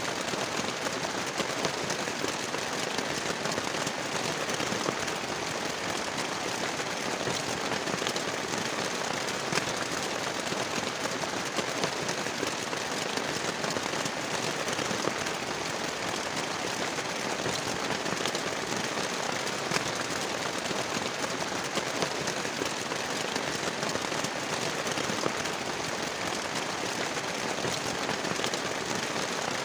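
Heavy rain falling steadily, with many sharp individual drop hits patting through the constant hiss.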